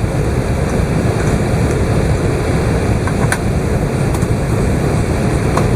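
Steady low rumble of cabin noise inside an Airbus A380, from its engines and the air or runway beneath it, with a few faint clicks from the cabin.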